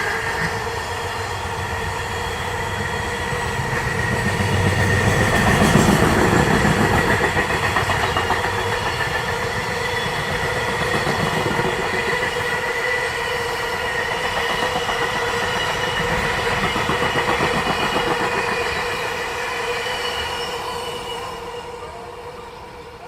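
Train running past on the rails: a continuous rumble with a steady wheel squeal over it. It is loudest about six seconds in and fades away near the end.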